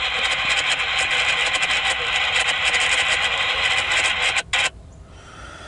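Radio static hissing with the squelch open, then cutting off abruptly about four and a half seconds in.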